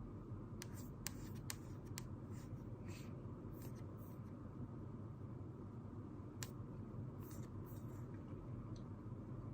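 Pen writing on paper in short scratchy strokes, with a handful of sharp clicks in the first two seconds and one more about six seconds in, over a steady low room hum.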